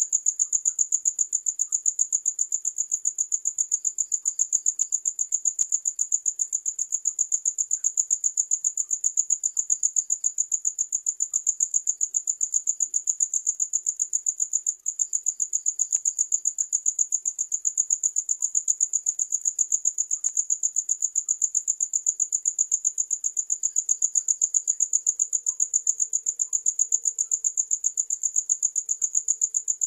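Crickets chirping: a steady, high-pitched trill of rapid, even pulses, with a fainter second trill a little lower in pitch breaking in for short spells every few seconds.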